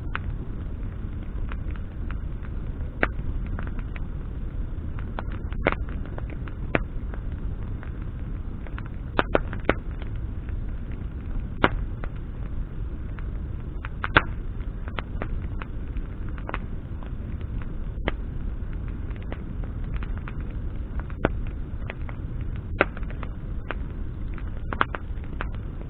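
Wood bonfire burning: burning branches crackle with irregular sharp snaps and pops, a few of them louder, over a steady low rumble.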